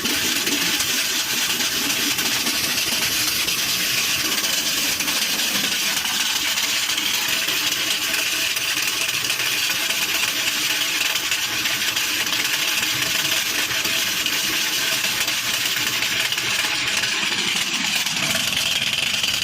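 Traditional Nepali water mill (panighatta) running: a steady rush of water with a continuous mechanical rattle from the turning mill.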